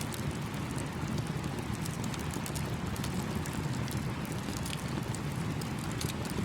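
Campfire crackling with scattered sharp pops over the steady rushing of a small stream.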